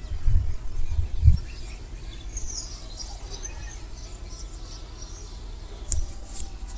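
Faint high chirping calls of small birds or insects over a quiet outdoor background, with low thumps in the first second and a half and a sharp click about six seconds in.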